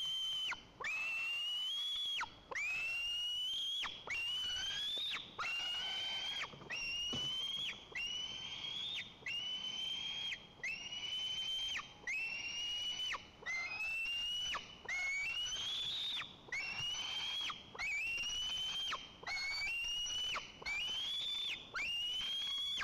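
White-tailed eagle nestling begging for food: a long series of high, piping whistled calls, about one a second, each sweeping up sharply and then drawn out while rising slightly in pitch.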